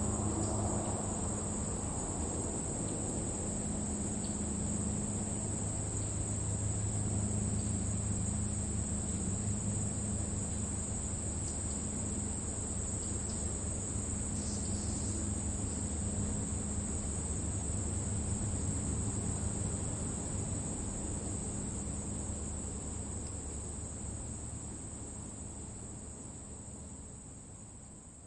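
Field crickets chirping in a steady high chorus in grass, over a low steady rumble. The sound fades out gradually toward the end.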